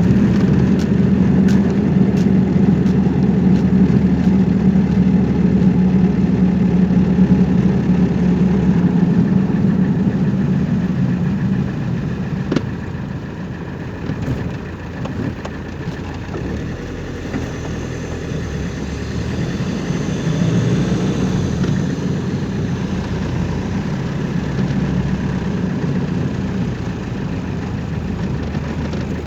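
Car engine and road noise heard while driving, a steady low hum that eases off about twelve seconds in and builds again a little later.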